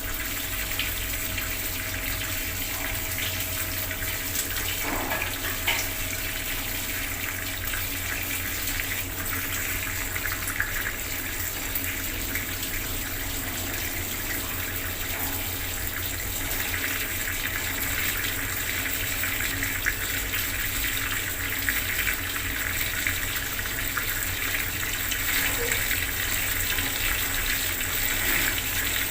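Bathroom tap left running, water pouring steadily and splashing below, with a slight echo of the small tiled room.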